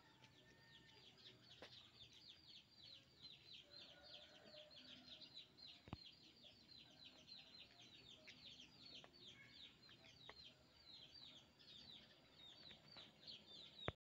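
Faint bird calls: a fast, unbroken series of short, high, downward-sliding notes, about five a second. A single sharp click about six seconds in.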